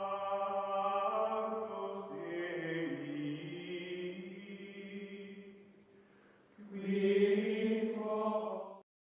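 Music of sustained, chant-like voices holding long notes: one long phrase, a brief dip, then a shorter phrase. It cuts off abruptly just before the end.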